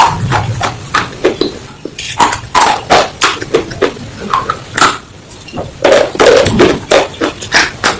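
Crunchy slate pieces being bitten and chewed right at a microphone held by the mouth, giving rapid, irregular crisp crunches with short lulls about two and five seconds in.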